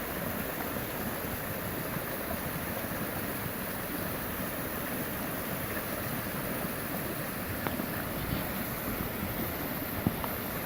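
Muddy flash-flood water rushing down a normally dry desert wash, a steady rush with a few faint clicks in it.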